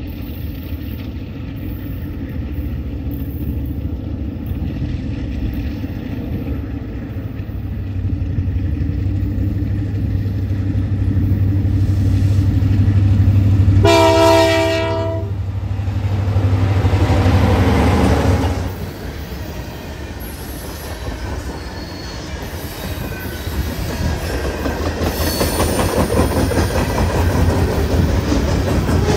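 Canadian Pacific GP38-2 diesel-electric locomotives, with EMD two-stroke engines, approaching and passing with a low engine drone that grows louder. About halfway through, the horn gives one short blast. Then the freight cars roll by, wheels clattering on the rails.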